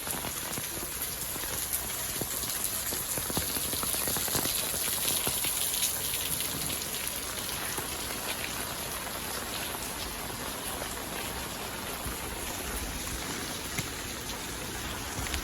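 Steady rain falling, with many small drop hits on surfaces heard through the even hiss.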